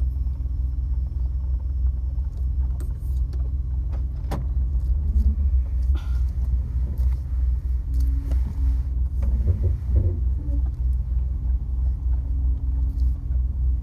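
A large truck's engine and road noise heard from inside the cab while driving: a steady low rumble, with a few light clicks and rattles.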